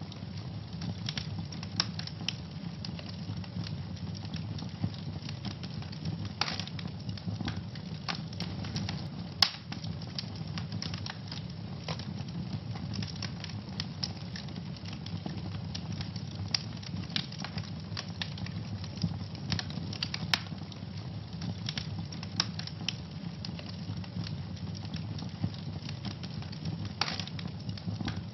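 Wood fire burning in a fireplace, a steady low rumble with constant crackling and occasional sharper pops.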